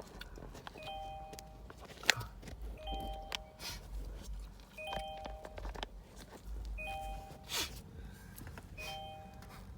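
Electronic chime from an automated car wash pay station, a short two-tone beep repeating about every two seconds, with a few clicks and knocks between the beeps.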